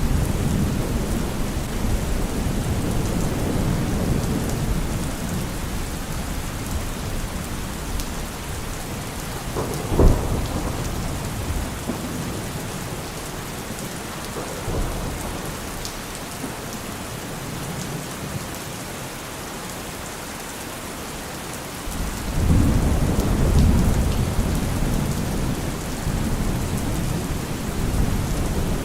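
Steady rain with rolling thunder: low rumbling that eases off, a sharp crack about a third of the way through, and a new deep rumble of thunder rising near three quarters of the way through.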